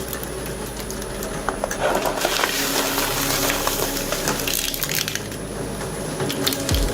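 Shredding machine crunching up a plastic remote-controlled toy helicopter, with many sharp cracks and snaps of breaking plastic throughout. Faint background music runs underneath.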